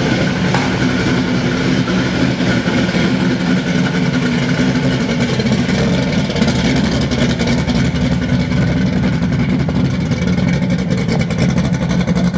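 Supercharged big-block V8 of a Pro Street Camaro, fitted with a 6-71 blower and a solid roller cam, idling steadily and loud.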